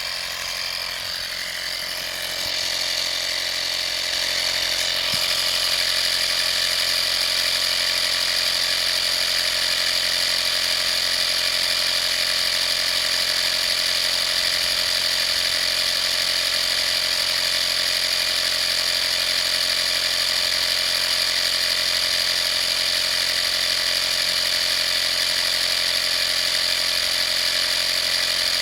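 Vaper 12V portable air compressor (model 55203) running, a steady motor-and-piston drone with a high whine. It grows louder over the first few seconds, then runs evenly.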